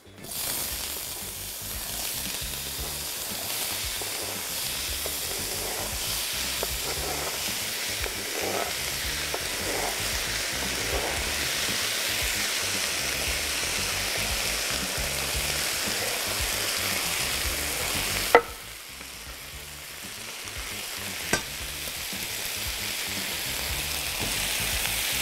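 Chopped vegetables sizzling in hot oil and butter in a stainless steel frying pan, the sizzle starting suddenly as they go into the oil. A sharp click about eighteen seconds in, after which the sizzle drops and then builds back up.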